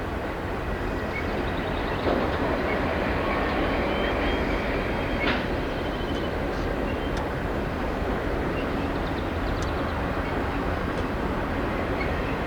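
CN freight train rolling past on the rails: a steady rumble of wheels and cars, with clicks scattered through it.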